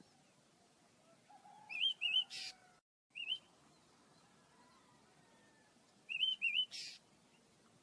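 Pet birds chirping: a quick run of short wavering chirps ending in a harsh rasp about two seconds in, a single chirp a moment later, and another run of chirps with a rasp near the end. The sound cuts out completely for a split second just before the single chirp.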